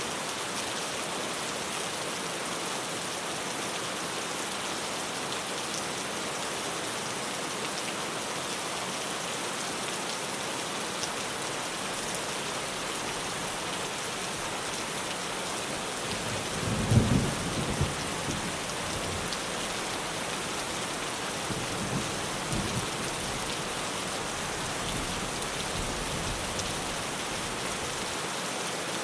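Steady heavy rain drumming on a tin roof. Thunder rumbles loudly about halfway through, and a weaker rumble follows a few seconds later.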